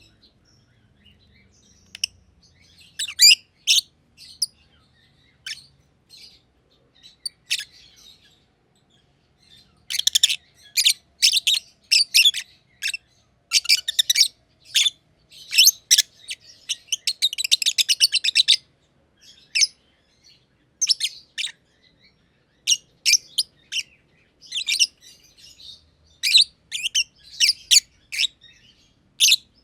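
Black-masked (personata) lovebirds chirping: short, shrill chirps, scattered at first and then in dense runs from about a third of the way in, with a fast chattering burst in the middle.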